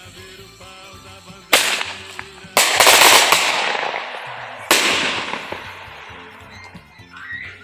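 Three loud bangs, the second the loudest and longest, each fading away slowly, over background music.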